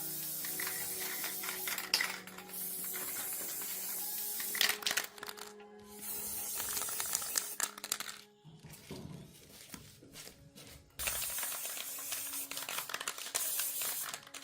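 Hissing spray that comes in bursts of two to three seconds with short gaps between them, mixed with scattered clicks and background music.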